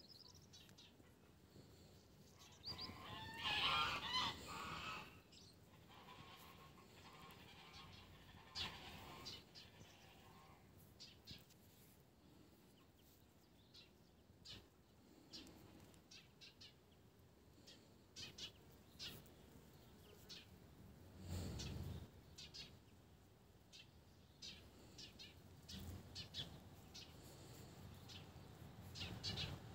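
Faint bird calls: a louder call lasting about two seconds around four seconds in, then short high chirps scattered throughout, with a brief low rumble about two-thirds of the way through.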